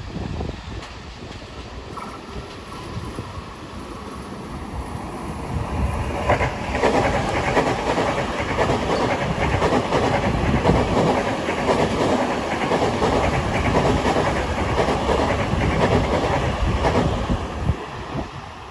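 Long Island Rail Road train passing on the tracks, its rolling noise swelling about six seconds in, staying loud for about ten seconds and fading near the end.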